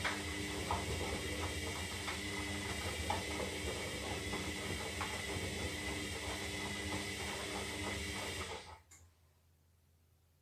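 Zanussi Lindo 300 washing machine working through its synthetic wash cycle: a steady hiss with a low hum and small irregular ticks, which stops suddenly about nine seconds in.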